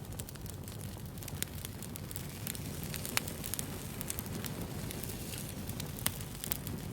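Wood fire burning with a steady low rumble and scattered sharp crackles and pops, the loudest pop about three seconds in.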